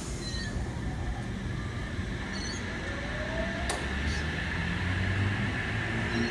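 Electric suburban passenger train pulling out of the platform: a steady low rumble, with a slowly rising motor whine and a sharp click a little over halfway through.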